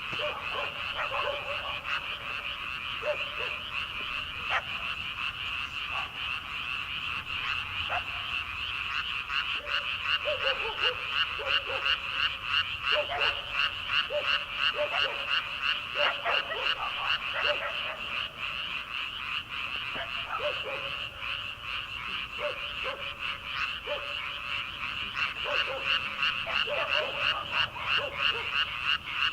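A dense chorus of many frogs calling from rice paddies: a continuous high-pitched trilling mass, with shorter, lower croaks breaking in now and then. Through the middle and again near the end the chorus swells into a quick, even pulsing beat.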